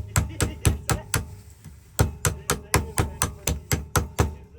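Quick hammer taps on metal, in two runs of about four to five blows a second with a pause about a second in, each tap leaving a short ring. These are parts being tapped into place while a rekeyed Ford ignition lock is put back together.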